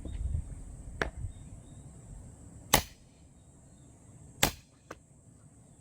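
Small axe chopping into a log while splitting firewood: three sharp strikes roughly a second and a half to two seconds apart, the second and third the loudest.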